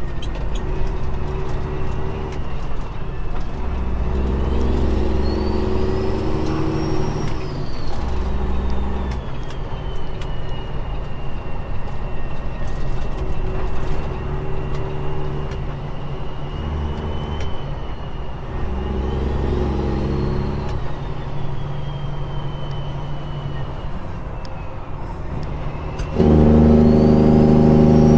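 Peterbilt 389 glider's diesel engine running with the engine brake on a long downgrade. A thin whistle rises and falls above the engine note. Near the end the engine brake abruptly gets louder and harsher.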